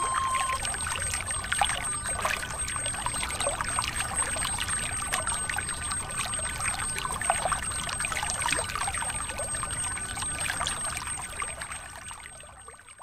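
Water pouring from a miniature hand pump's spout into a small model pond: a steady splashing trickle that fades out near the end.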